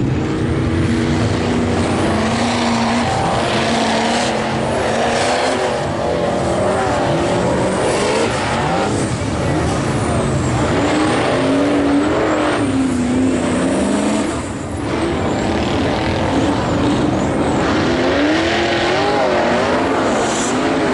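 V8 engine of a Chevy Blazer mega truck on V-tread paddle tires revving hard, its pitch rising and falling again and again under throttle, over a constant rushing noise.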